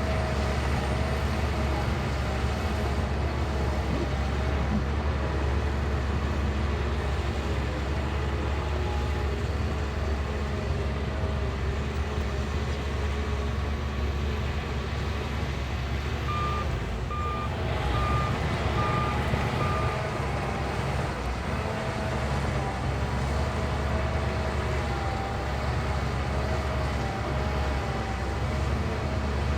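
Shantui bulldozer's diesel engine running steadily under load with a low drone. About sixteen seconds in, its reversing alarm beeps five times, roughly a beep a second, as it backs up.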